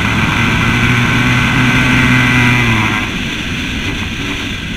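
Yamaha WR 125 X single-cylinder four-stroke engine pulling under throttle at steady revs, with wind rushing past. About three seconds in, the throttle is closed and the engine note drops away.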